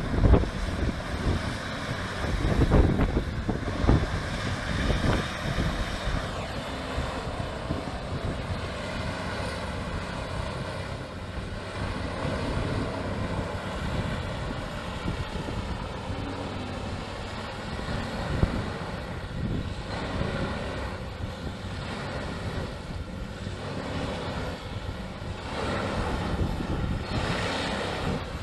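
A machine engine running steadily, with a few knocks in the first five seconds.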